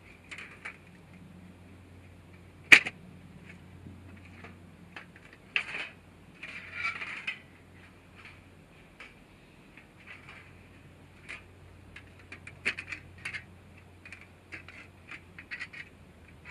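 Small hard objects being handled: sparse light clicks and clinks, with one sharper knock about three seconds in, a short rustle around seven seconds and a quick run of clicks near thirteen seconds.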